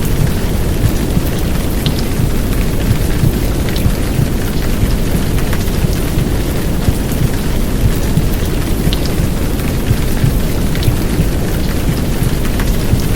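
Heavy downpour of rain: a steady rush with scattered drop ticks, layered over a low, even rumble of womb sound.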